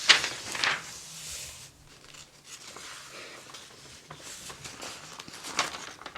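Pages of a paper catalog being handled and turned: two sharp rustles in the first second, then softer paper rustling, with another rustle near the end.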